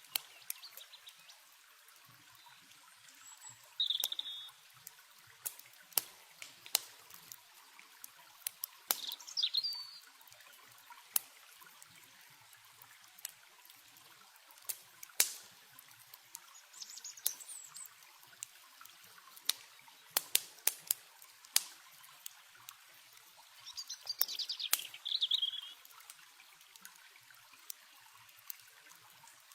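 Campfire crackling with frequent sharp pops over the steady rush of river water, while a bird gives short chirping phrases about four times.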